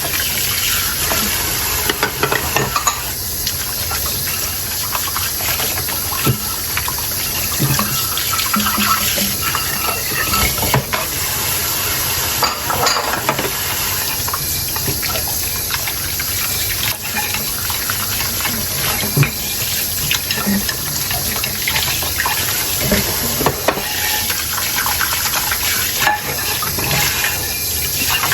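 Hand-washing dishes at a sink under a running tap: steady running water with frequent clinks and knocks of tableware being handled.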